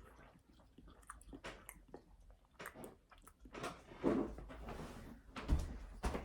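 Close-up chewing and biting, with irregular crunchy clicks and wet mouth noises, louder about four and five and a half seconds in.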